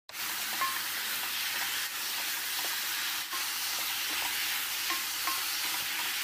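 Spicy pork stir-fry (jeyuk bokkeum) sizzling in a hot pan while being stirred with a wooden spatula: a steady frying hiss with occasional light ticks.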